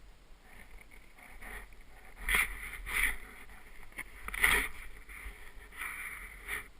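Swishing and scraping on snow, sliding on the slope, with three louder swishes about two, three and four and a half seconds in, over a low rumble of wind on the microphone.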